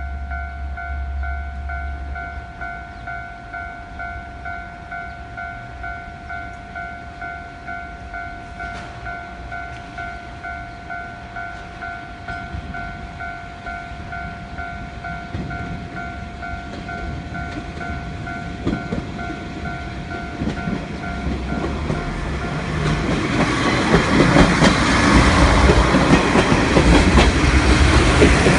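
Japanese level crossing warning bell ringing in a steady repeating ding. A JR Kyushu train then approaches, growing louder, and passes over the crossing in the last several seconds with its wheels clattering over the rail joints, drowning out the bell.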